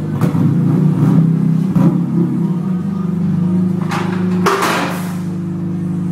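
BMW M3 engine idling through a custom-built exhaust: a steady low drone, a little uneven in the first couple of seconds. A brief rushing noise comes in about four and a half seconds in.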